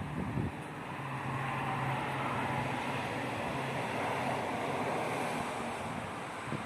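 Strong wind rushing in a swelling gust and buffeting the phone's microphone.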